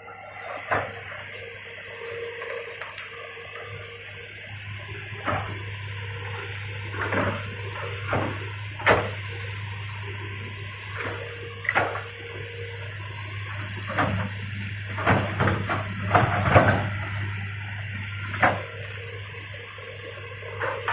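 Excavator at work clearing land: the engine runs steadily under irregular sharp cracks and knocks, thickest in the second half.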